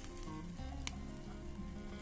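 Food sizzling as it cooks over a camp fire, with a sharp pop a little under a second in.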